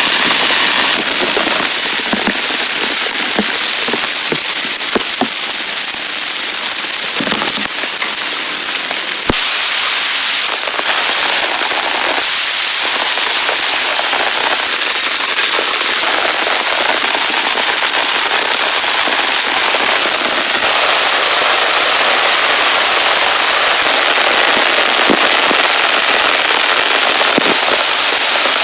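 Heavy rain falling steadily, a dense hiss dotted with sharp ticks and pops from individual drops striking nearby surfaces.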